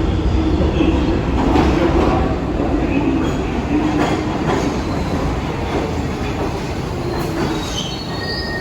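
New York City subway train running through the station with a heavy rumble and wheels clicking over rail joints, and a brief high wheel squeal near the end.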